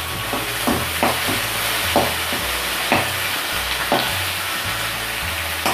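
Curry leaves and green chillies sizzling in hot oil with ginger-garlic paste in a metal kadai, with a perforated metal ladle stirring and striking the pan about once a second.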